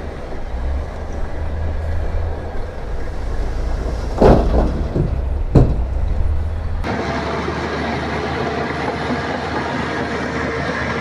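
Heavy diesel earthmoving machinery running with a deep steady rumble, with two loud bangs a little over a second apart near the middle; the sound then changes abruptly to another steady engine drone.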